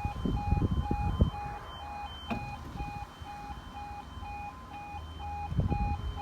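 Level crossing's E2S electronic alarm sounding a pulsed tone, about two beeps a second, with a low rumble in the first second and again near the end.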